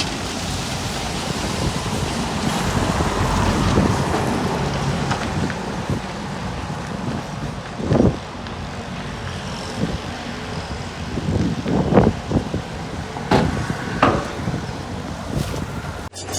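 Earthmoving machinery at work: a diffuse rumble with wind buffeting the microphone, and several sharp clanks in the second half.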